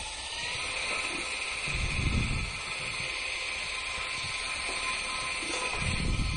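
Electric motor and balsa rotor of a small home-built RC helicopter spinning up, its whine rising in pitch in the first half second and then holding steady. Low gusts of noise come about two seconds in and again near the end.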